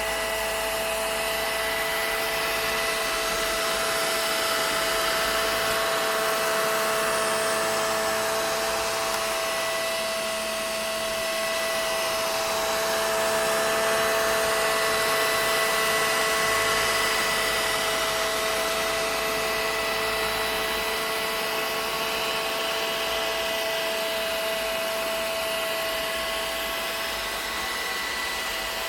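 Vacuum cleaner running steadily: a constant motor whine over a rushing air hiss, the level swelling and easing slightly now and then.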